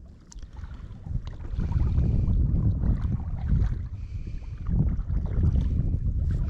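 Wind buffeting the microphone in two long gusts, starting about a second and a half in, over the faint sound of kayak paddles in the water.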